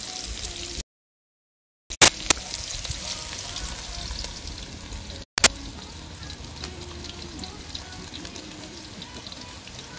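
Onions and curry leaves sizzling in hot oil in a pot on a grill, a steady frying hiss. The sound cuts out for about a second near the start. Sharp clicks come about two seconds in, and again about five seconds in.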